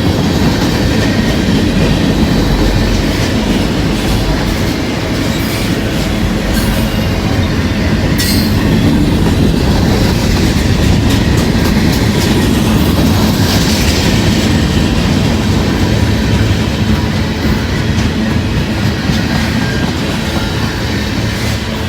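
Freight train cars rolling past close by: a steady rumble of steel wheels with clicks over the rail joints, and one sharper clack about eight seconds in.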